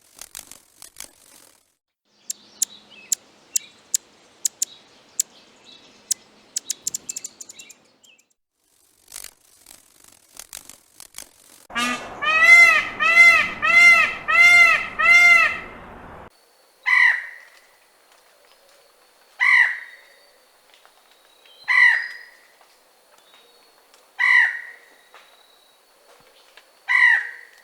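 Bird sounds in three parts. First comes a series of sharp taps that quicken toward the end. Then a bird gives a rapid run of about six ringing, arching calls, and after that single short calls repeat every couple of seconds.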